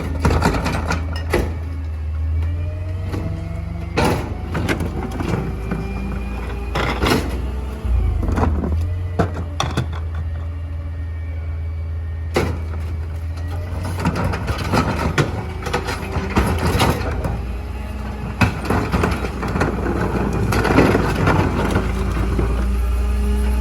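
Small garbage truck's engine running under load while its hydraulic packer compacts trash. The hydraulics whine, rising in pitch, twice, and there are repeated metal clanks and knocks.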